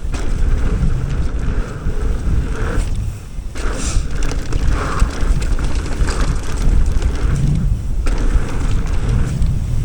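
Wind rushing over the camera microphone together with the rumble and rattle of a mountain bike's tyres rolling fast over a dirt trail, dipping briefly about three seconds in and again near eight seconds.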